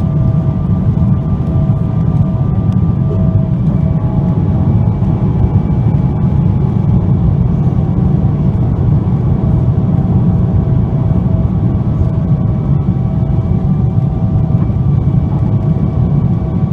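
Boeing 777-200ER's GE90 engines heard from inside the cabin: a loud, steady deep roar with several steady whining tones above it.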